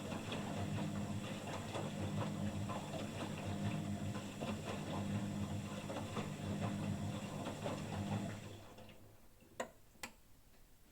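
Washing machine motor running with a steady hum and rapid ticking, winding down about eight seconds in, followed by two sharp clicks.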